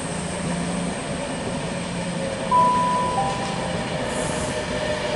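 Virgin Trains Class 390 Pendolino electric train approaching and running into the station, a steady rumble of wheels on rails, with a brief high steady tone from about halfway through.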